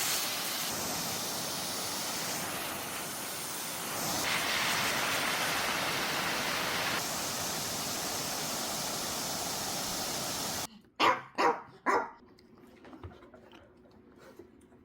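A steady rushing noise that cuts off suddenly, then a dog barks three times in quick succession.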